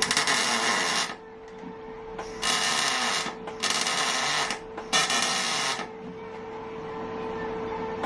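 Electric welding in short runs: four bursts of about a second each, with gaps between them, over a steady hum.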